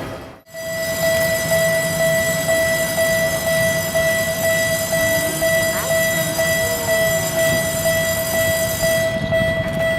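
Electric locomotive standing with its equipment running: a steady high-pitched whine in two tones over a noisy hum, after a brief dropout about half a second in.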